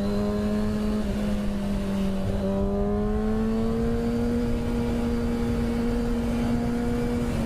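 Motorcycle engine running at steady cruising revs, its note rising slightly about three seconds in and then holding, over a rush of riding wind.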